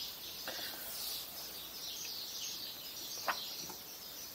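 Birds chirping continuously in the background, with a single sharp tap a little over three seconds in.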